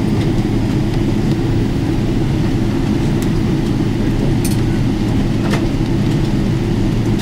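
Steady low rumble of a Boeing 777-300ER cabin as the airliner taxis after landing, its engines near idle. A few faint clicks about halfway through.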